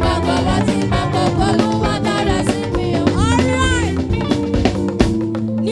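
Band music with a steady drum-kit beat of snare, rimshot and bass drum under sustained keyboard or guitar notes, with a gliding melodic phrase midway.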